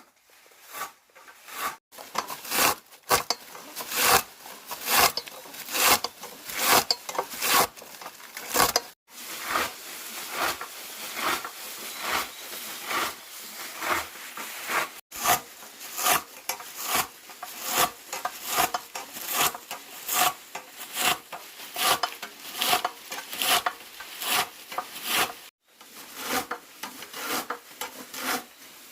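Rhythmic scraping or rubbing strokes, a little more than one a second, repeated steadily with a few brief breaks.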